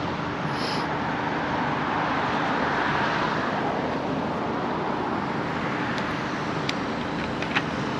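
Steady vehicle engine and traffic noise with a low engine hum, and a few light clicks near the end.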